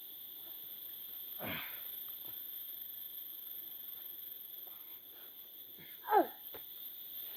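Steady high-pitched drone of forest insects, two even tones that hold throughout. A short falling vocal sound breaks in about six seconds in, with a softer falling sound about a second and a half in.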